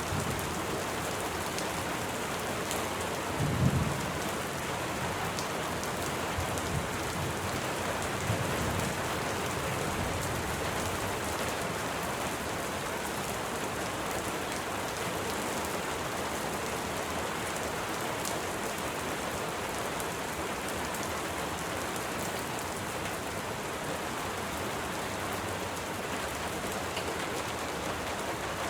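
Steady, heavy rain falling, a dense even hiss of drops. Two short low thumps or rumbles stand out, about four and eight seconds in.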